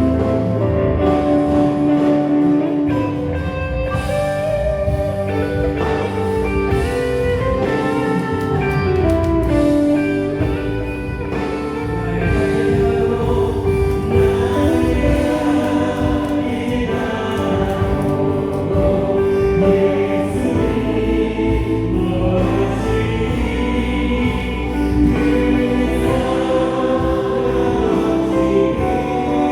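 Live contemporary worship music: a group of singers sings together over a band of drums, bass guitar, electric guitar and keyboard.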